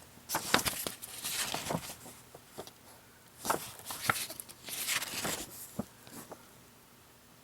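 Paper brochures being handled and their pages turned: irregular rustles and soft taps that die away about six and a half seconds in.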